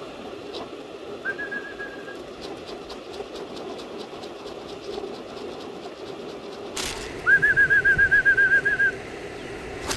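A pea whistle trilling at one steady pitch: a short trill about a second in, then a louder, longer trill of about eight warbles a second near the end, calling young pigeons back in to the loft.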